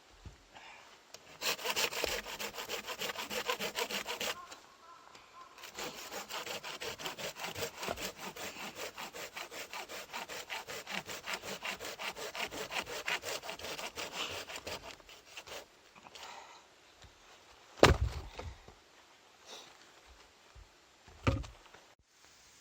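Hand saw cutting through wood in quick, even back-and-forth strokes, in a short bout and then a longer one of about ten seconds. Two heavy thumps follow near the end.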